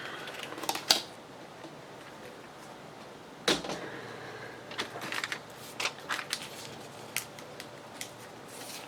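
Paper and craft tools handled on a work table: scattered clicks and taps, one sharp knock about a second in, another a little after three seconds, then a run of lighter clicks.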